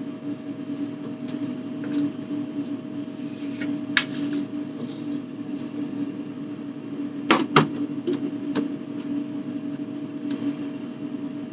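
A steady appliance hum throughout, with a few sharp knocks and clatters of items being handled and set down, the loudest a quick pair of knocks about seven and a half seconds in.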